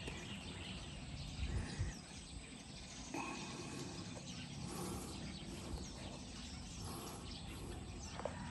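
Scattered bird chirps over a steady low background rumble of outdoor noise.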